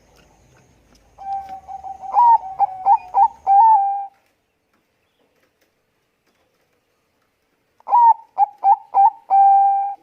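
Zebra dove of the Bangkok perkutut strain cooing: two phrases, each a run of about five short, quick-flicked notes ending in a longer held coo. There is a few seconds' pause between them.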